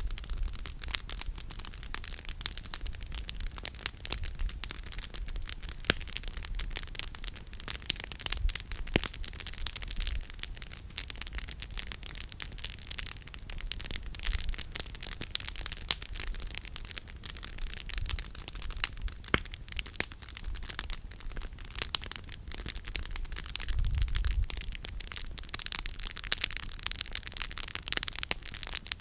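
Campfire firewood crackling and popping, with many sharp irregular snaps over a steady hiss of burning. Low rumbling swells come near the start and again about 24 seconds in.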